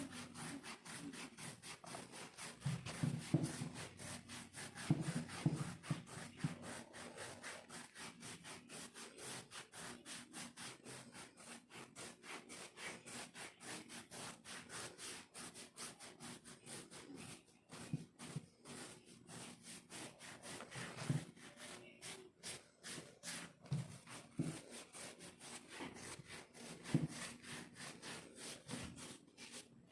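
Rapid, rhythmic scratching of dry, flaking skin on a leg, several strokes a second, rasping like sawing. A few dull bumps are mixed in.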